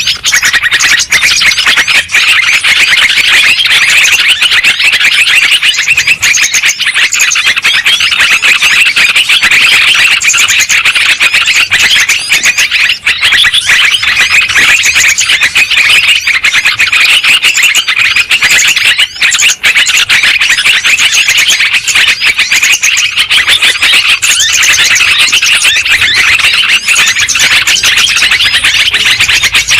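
Yellow-vented bulbuls (cucak trucuk) chattering busily: a loud, dense, unbroken tangle of many overlapping chirps and warbled calls.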